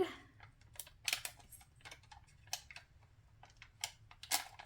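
Scattered light clicks and small taps of hands handling a roll of adhesive Velcro dots, peeling a fuzzy-side dot from its backing.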